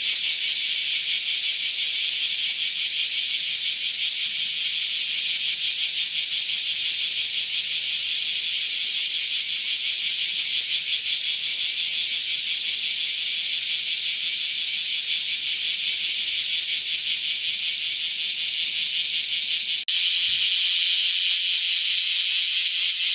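Cicadas calling: a loud, continuous, high-pitched buzz made of very rapid pulses. It breaks off for an instant about twenty seconds in and resumes with a slightly different tone.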